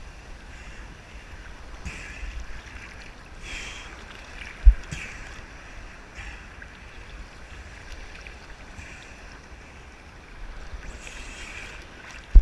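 Ocean waves washing and splashing around a person standing in the surf, in several rushes of water, with wind on the microphone. Two sharp thumps on the microphone, one about five seconds in and one at the very end, are the loudest sounds.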